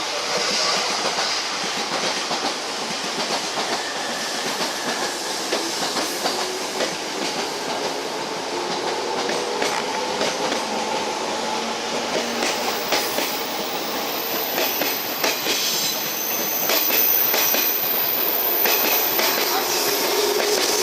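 A JR 185-series express electric train pulls out of the platform and gathers speed with steady running noise. Rail-joint clicks come more often in the second half, and a thin high wheel squeal sounds near the end.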